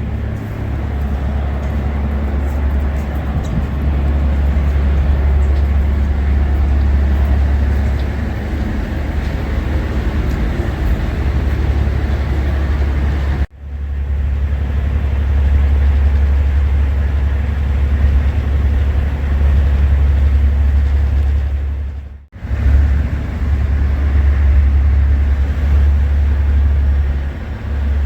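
Strong storm wind buffeting the microphone: a loud, steady low rumble with a rushing noise over it, which cuts out abruptly twice, about halfway through and again later.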